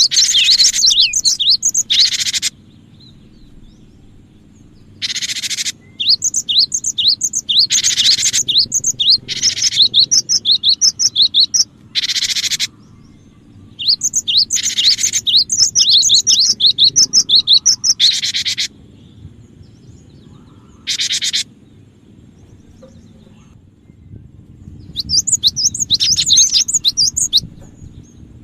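Cinereous tit (gelatik batu) calling: phrases of rapid, high chirping notes mixed with short harsh churring bursts, repeated in runs of a few seconds with brief pauses between them.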